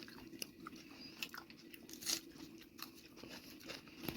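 A person chewing and biting into a chicken leg piece: faint, scattered clicks and small crunches of eating.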